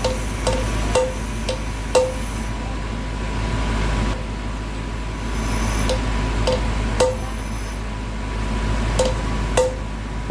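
Hammer blows on metal, in groups of two to four about half a second apart, each leaving a short ring, over a steady workshop hum.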